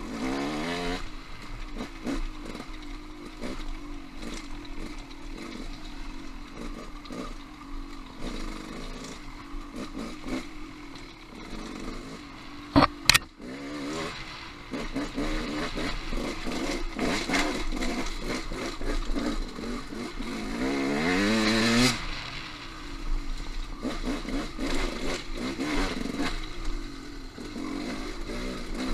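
Off-road motorcycle engine running at varying revs on a rocky trail, with frequent knocks and clatter. Two sharp, loud knocks come about halfway through, and near the end the engine revs up steadily for a couple of seconds, then drops off suddenly.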